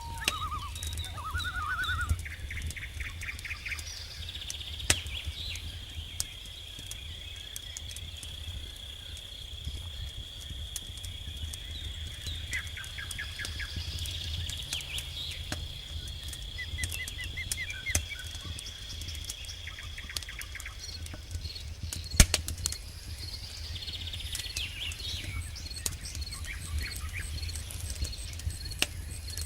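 Wood campfire crackling, with scattered sharp pops and one loud snap about 22 seconds in. Over it, an insect trills on one high, unbroken note for most of the first twenty seconds, and short bird-like chirps come and go.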